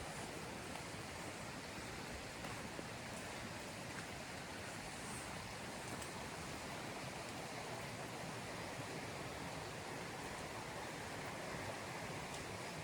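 Steady hiss of rain falling through the forest, with a few faint ticks.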